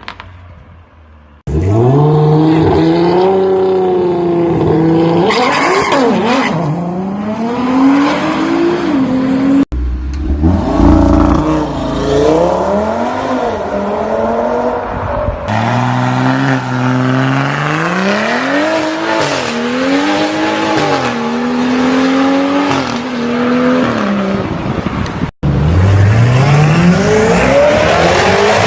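High-performance car engines and exhausts revving hard, the pitch climbing and dropping again and again as they accelerate. Several separate clips are cut together, with abrupt changes a few times.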